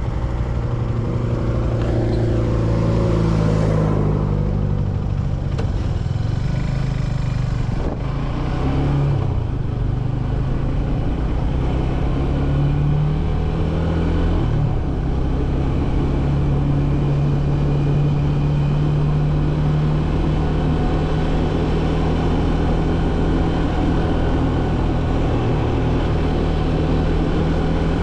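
Motorcycle engine running under way and picking up speed, its note changing in steps about eight and fifteen seconds in as the rider shifts gears, with wind rushing over the microphone.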